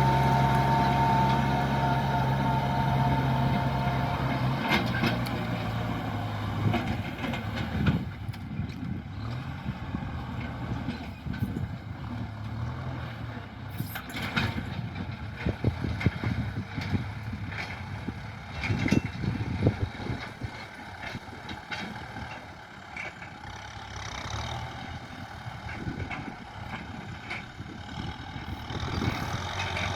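Tractor engine running, with a steady hum for the first few seconds. It then drops back under irregular clattering knocks and grows louder again near the end.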